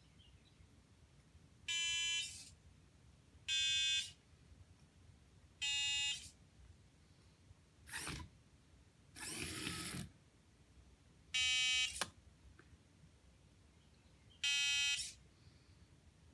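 Short electronic buzzer beeps, each about half a second long, come one at a time a couple of seconds apart at slightly different pitches, like notes keyed from a piano pad. Near the middle there is a short burst and then about a second of a small motor whirring, typical of a servo moving.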